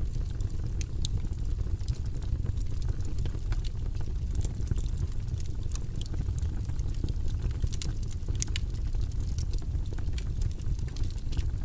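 Wood fire burning in a fireplace: a steady low rumble of flames with irregular sharp crackles and pops of burning wood.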